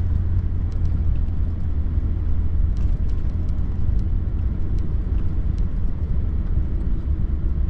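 Steady rumble of a truck driving, heard inside the cab: engine and road noise, with a few faint, scattered ticks.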